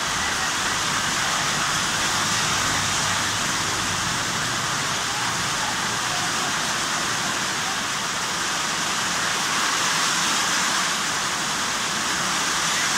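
Heavy rain pouring down in a steady, dense hiss, drumming on the corrugated metal roof overhead.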